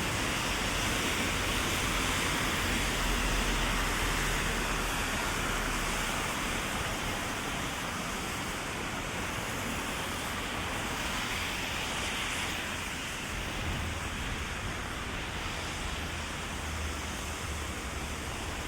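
Heavy rain falling in a steady hiss, with a low rumble underneath that swells twice.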